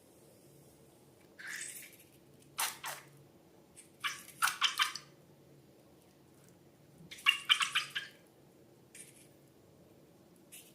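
Slime being squished and worked by hand, making short wet crackling squelches in several separate bursts, the loudest clusters about four and seven seconds in.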